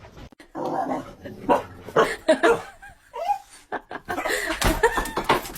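A pet dog's vocal noises mixed with people laughing.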